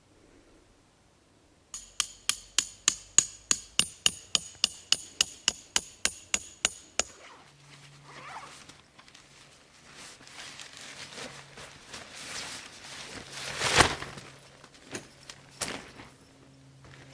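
A hammer striking a metal tent stake in a quick run of about two dozen blows, around five a second, each with a metallic ring. Softer rustling and handling noise follow, with one sharp crack near the end.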